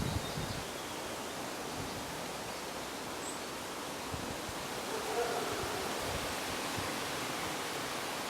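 Wind blowing steadily, with low gusts buffeting the microphone at the start and again in the middle.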